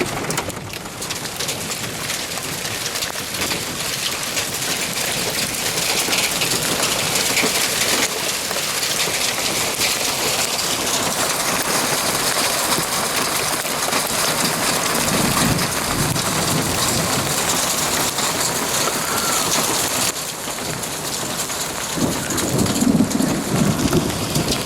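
Heavy rain mixed with small hail pelting hard surfaces in a dense, steady patter. Thunder rumbles low twice, once past the middle and again near the end.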